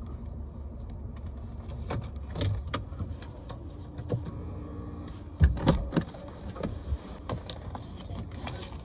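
A car running, heard from inside, with scattered clicks and a couple of louder thumps about five and a half seconds in.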